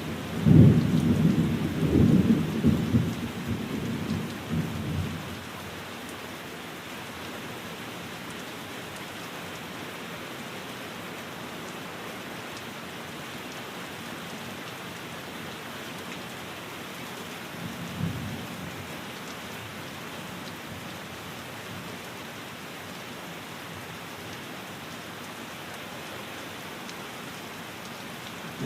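Steady rain on a window with thunder rumbling: a long roll of thunder in the first five seconds, a brief rumble partway through, and another beginning at the end.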